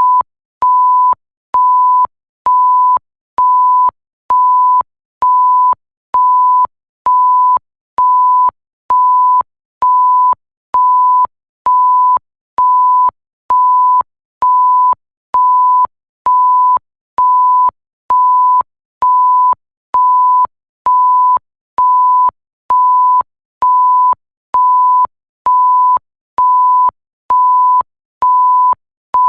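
Electronic censor bleep: a single pure, steady tone beeping on and off at an even pace, about once a second, each beep a little over half a second long with short gaps between.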